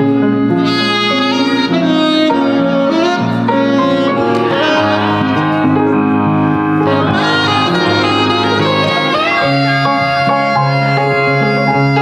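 Saxophone playing a smooth-jazz melody with bends in pitch, over sustained chords and a bass line.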